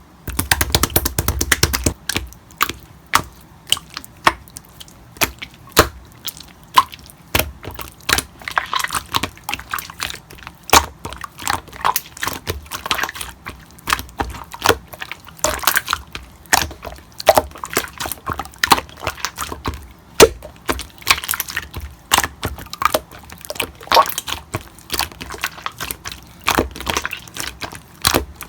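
Slime being squeezed and worked by hand: a dense, irregular run of sticky clicks and pops.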